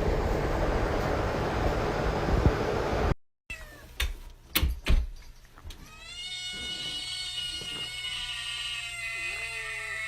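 A steady noise for about three seconds, cut off abruptly, then a few sharp clicks, then a domestic cat giving one long drawn-out meow from about six seconds in, bending in pitch as it ends.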